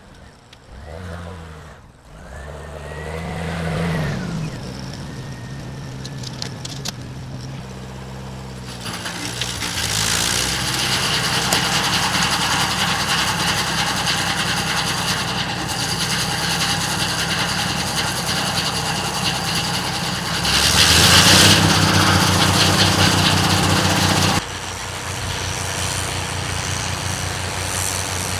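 Snowblower engine running steadily. From about a third of the way in, a loud rushing joins it, in keeping with snow being churned and thrown; it is loudest for a few seconds and then drops back suddenly.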